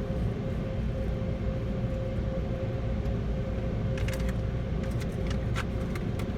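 Steady low rumble with a constant hum, as of a car idling, heard from inside the cabin. A few light clicks come about four seconds in and again near the end.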